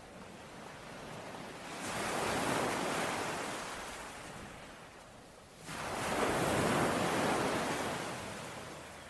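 Sea waves on a shore, two in turn: the first swells in about two seconds in and slowly washes out, the second breaks suddenly near six seconds and fades away.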